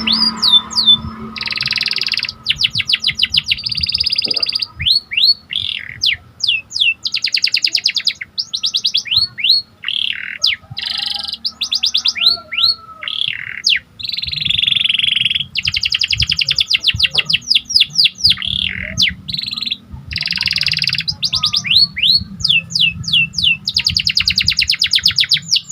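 Domestic canary singing a long, loud song: fast trills of repeated downward-sliding notes alternating with buzzy rolls, broken by short pauses between phrases.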